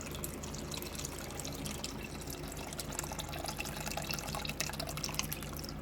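Chicken stock trickling and dripping steadily through a mesh strainer into a bowl.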